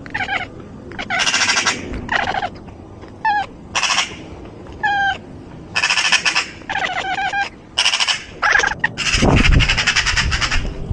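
A bird giving a series of about ten harsh, raspy squawking calls in irregular bursts, the last ones running together into a longer stretch. There is a low thump about nine seconds in.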